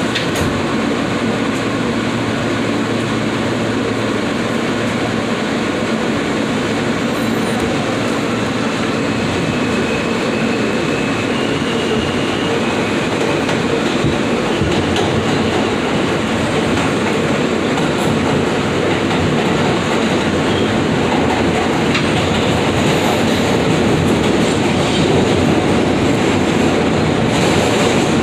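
New York City subway F train running between stations, heard from on board: a steady loud noise of wheels on rails that grows a little louder near the end, with a faint high whine briefly about a third of the way in.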